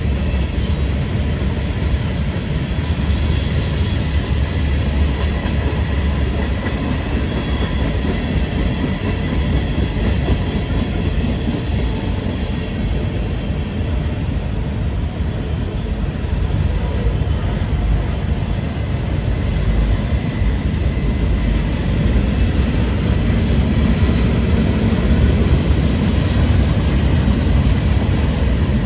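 Freight train cars rolling past close by, a loud, steady rumble of steel wheels on rail that swells a little toward the end.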